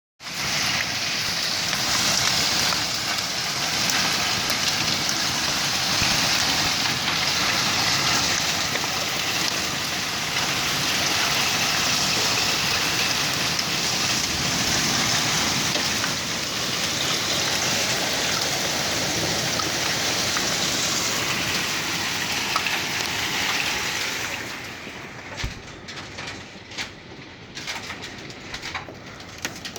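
Hail and rain in strong wind, pelting down as a dense, steady hiss. About 24 seconds in it eases suddenly, leaving scattered separate taps.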